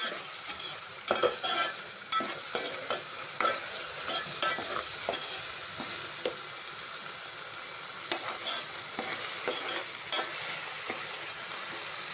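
Chopped onions and green chillies frying in oil in a metal pot, sizzling steadily, while a metal spoon stirs them, scraping and clicking against the pot, most often in the first half.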